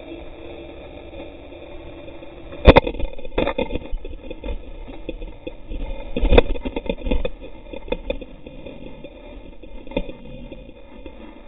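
Off-road vehicle engine running steadily, with loud knocks and rattles from the vehicle jolting over rough ground. The loudest knock comes nearly three seconds in, a second just past six seconds, with smaller clatters around them.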